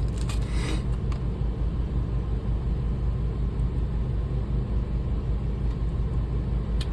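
A steady low background rumble, with a few faint small clicks about a second in.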